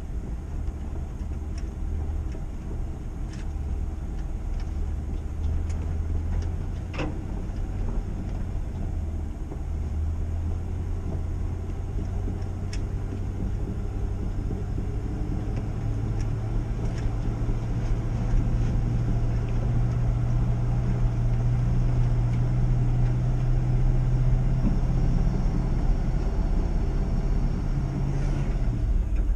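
Old pickup truck's engine running as it drives off, its low hum slowly climbing in pitch, then dropping just before the end. A few scattered clicks.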